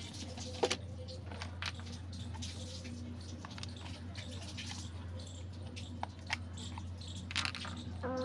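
A few light, scattered clicks and taps over a low steady hum.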